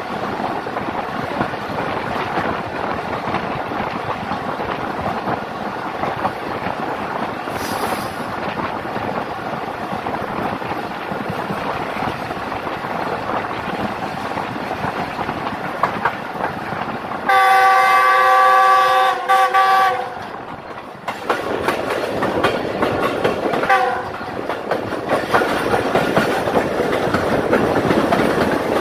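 Passenger express train running at speed, heard from an open coach window: a steady rush of wind and wheel noise with clickety-clack over the rail joints. About two-thirds of the way through, the diesel locomotive's multi-tone horn sounds one loud chord lasting about three seconds. A short, fainter toot follows a few seconds later.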